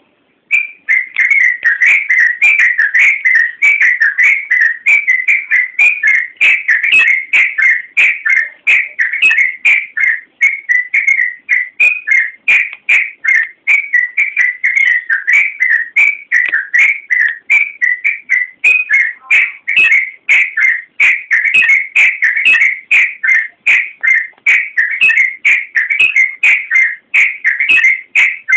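Yellow-vented bulbul (trucukan) singing nonstop: a fast run of short whistled notes, several a second, starting about half a second in.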